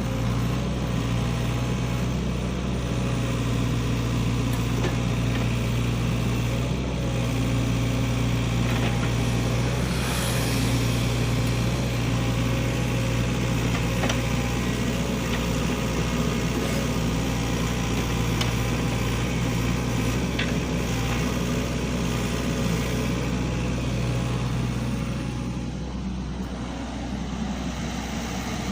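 SANY hydraulic excavator's diesel engine running steadily, with a few faint knocks; about 26 seconds in the engine eases off a little.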